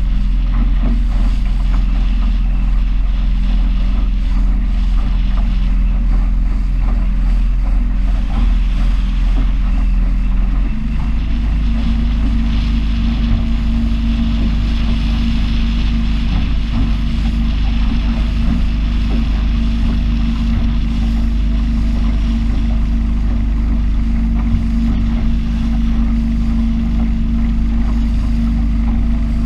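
Small powerboat's engine running steadily, with wind buffeting the microphone and water rushing past the hull. About eleven seconds in the engine note shifts to a new steady pitch.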